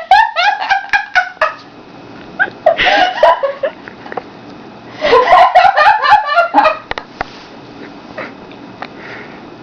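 A woman laughing hard in high-pitched, pulsing fits: three bursts of laughter, then it dies away about seven seconds in.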